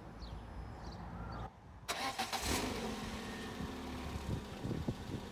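Peugeot 206 engine starting about two seconds in and settling into a steady idle, heard from beside the rear silencer and tailpipe, with the exhaust clamp freshly repaired.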